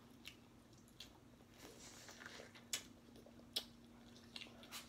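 Biting and chewing steamed corn on the cob: soft wet, crunchy mouth sounds with about six crisp clicks as kernels pop, over a faint steady hum.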